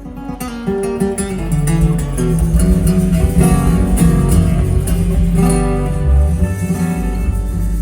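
Live band music: picked acoustic guitar with bass and drums. The band comes in about half a second in and swells over the first couple of seconds.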